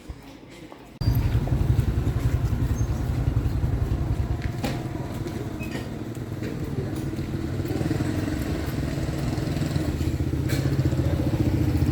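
An engine running steadily with a fast, low, pulsing beat; it starts abruptly about a second in, with a few sharp clicks over it.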